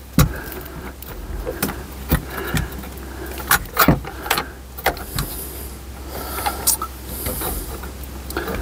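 Irregular knocks and clatter of tools against metal, with two short high-pitched scraping bursts about five and seven seconds in, over a steady low hum.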